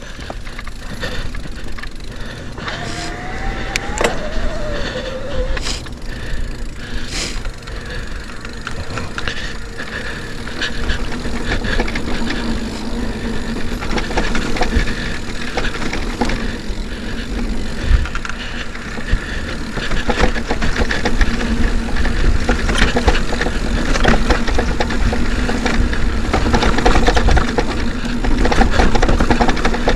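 Mountain bike riding over rough trail: a steady clatter of small knocks and rattles from the bike over the ground, over a constant low rumble.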